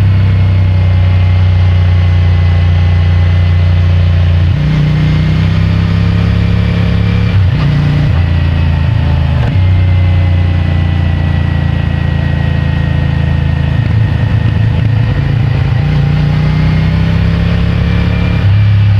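CFMOTO 450MT's parallel-twin engine through its stock exhaust, ridden with changing engine speed: the engine note steps up about four and a half seconds in, drops back near the middle, climbs again and falls back near the end. It sounds somewhat muffled, picked up by a mic in the rider's pants pocket.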